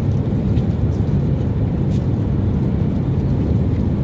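Steady, loud low rumble of a vehicle's interior, with no changes.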